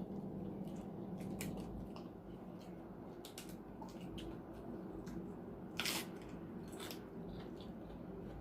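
Close-miked eating: wet chewing and small crunchy bites, with one louder, sharper crunch about six seconds in.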